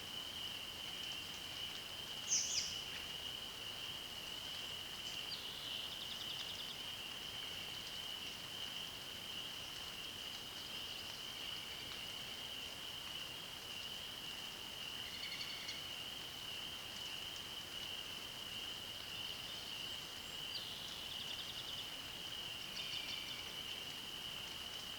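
Songbirds singing a handful of short, separate phrases, the loudest a bright high call about two seconds in, over a steady high-pitched chorus of frogs or insects that never lets up.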